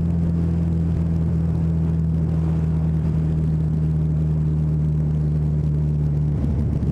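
Honda CB 1000R's inline-four engine running at a steady cruising speed, its note holding one pitch, with wind and road noise; the rider eases off the throttle near the end.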